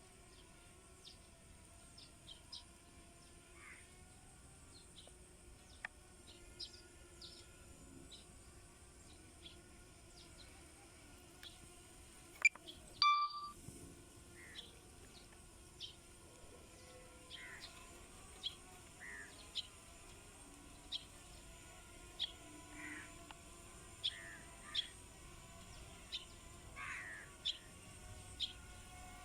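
Small birds chirping in short, high calls scattered throughout, with a crow cawing now and then. About halfway through there is a sharp click and a short beep.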